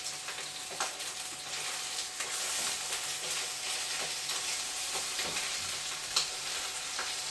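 Chicken frying in a pan, a steady sizzle with a few sharp pops of spitting fat.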